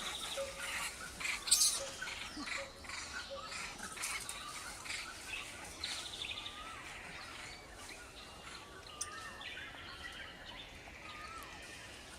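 Forest ambience with many birds chirping and calling, short sliding notes and a few buzzy trills overlapping; a sharp click about one and a half seconds in is the loudest moment.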